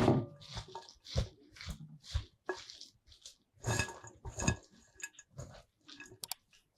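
Kitchen utensils knocking and clinking against dishware during food preparation: a sharp knock with a brief ring at the start, then a run of softer taps and scrapes.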